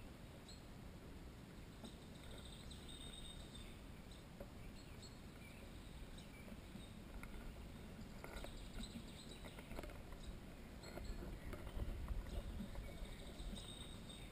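Small birds giving faint, thin, high-pitched calls a few times over a quiet woodland background, with a low rumble near the end.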